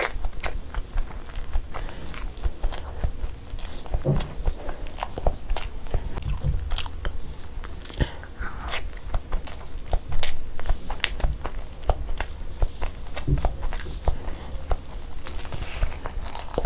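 Close-miked chewing and wet mouth sounds of someone eating spicy boiled eggs in thick masala gravy by hand: many quick, irregular smacks and clicks.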